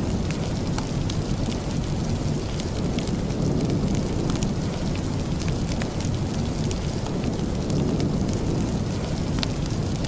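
Steady rain mixed with a crackling fireplace: a continuous low rush with scattered sharp crackles throughout.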